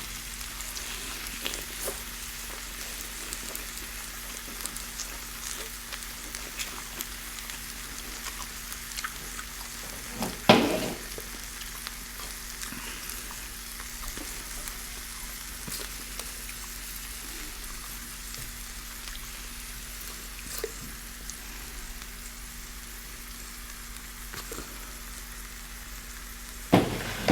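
Food frying in hot oil, a steady sizzle with small crackles, broken by a knock about ten seconds in and again near the end.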